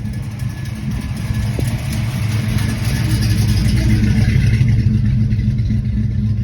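A car engine running steadily, growing louder over the first few seconds and then holding.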